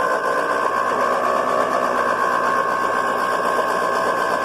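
1950 Ford 8N tractor's starter motor cranking the engine with a steady, high whine. The engine turns over without firing: no spark is reaching the plug.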